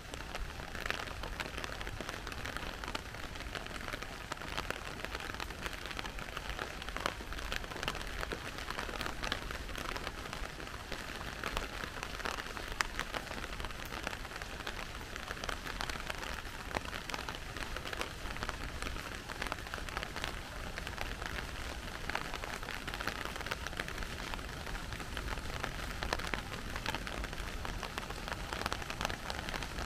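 Steady rain falling, with many close individual drop hits ticking over an even hiss.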